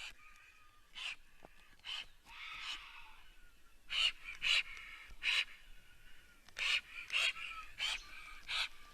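Birds calling outdoors: about nine short, harsh calls scattered irregularly, some in quick pairs, over a faint steady high tone.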